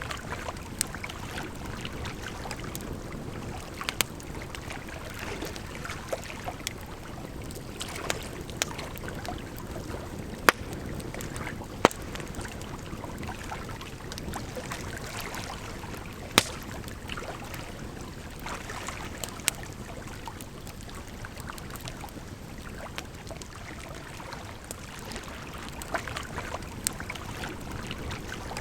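Campfire crackling, with irregular sharp pops, over a steady rush of flowing water.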